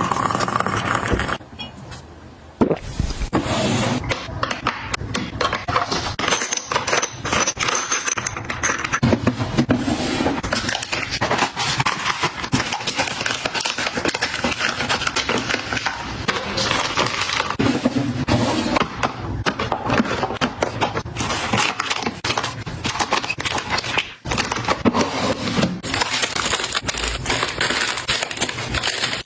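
Close-up handling of household items: a dense run of small clicks, taps, rustles and scrapes as things are picked up, moved and set down.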